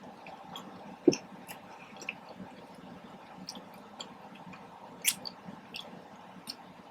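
Chewing soft-shell chicken tacos close to the microphone: scattered small wet mouth clicks and smacks. A louder smack comes about a second in and another about five seconds in.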